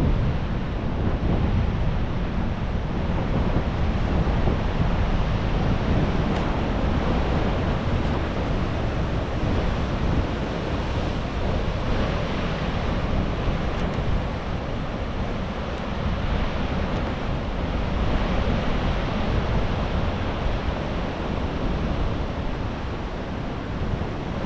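Atlantic surf breaking and washing steadily, with wind buffeting the microphone.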